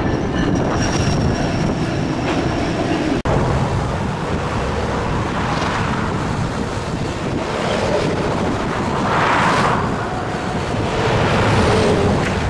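Diesel freight locomotives running past with wheel noise on the rails. About three seconds in, the sound cuts abruptly to a second freight train passing farther off.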